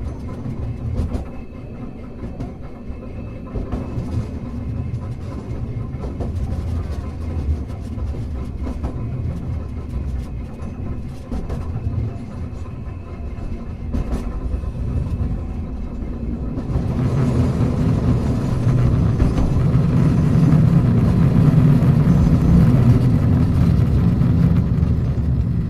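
Hankai Tramway tram car 351 running: a steady low rumble of wheels on rail and traction equipment, with a few sharp clicks. About two-thirds of the way through it grows louder and hissier.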